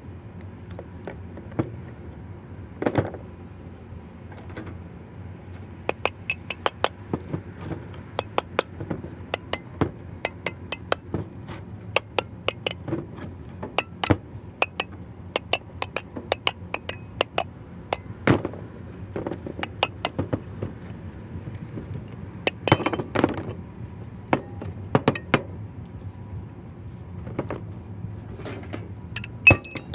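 Metal tools and parts clinking and knocking irregularly, many sharp clicks in quick runs, over a faint steady low hum.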